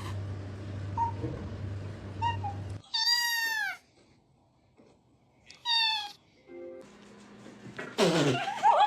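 Domestic cat meowing: a drawn-out meow about three seconds in that drops in pitch at its end, a shorter one a couple of seconds later, and louder wavering calls near the end.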